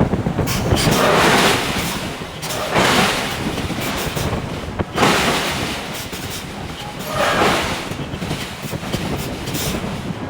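Hydraulic forging hammer at work on hot steel: steady low machinery noise with a surge of hiss about every two to three seconds.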